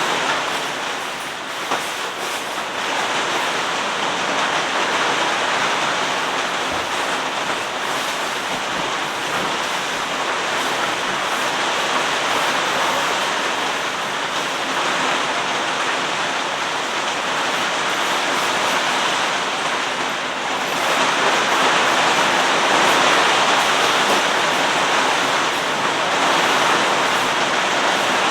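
Steady rushing of heavy rain with strong wind, growing a little louder about two-thirds of the way through.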